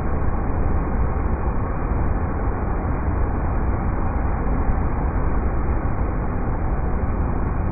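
River rapids rushing: a steady, unbroken water roar, heaviest in the deep low end.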